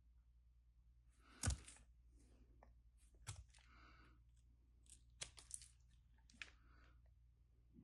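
Knife carving into a bar of soap: a few short, crisp scraping cuts, the loudest about a second and a half in, with others near three, five and six seconds.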